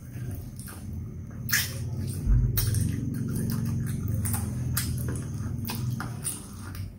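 Close-up chewing and wet mouth clicks from someone eating fried chicken, with a low steady hum underneath and a single heavy thump about two seconds in.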